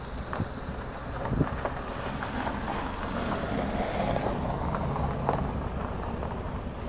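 Ford Mustang II's engine running at low speed as the car rolls down a gravel driveway and passes close by, a steady low rumble that grows a little louder in the middle as it goes past, with scattered small crackles from the tyres on gravel.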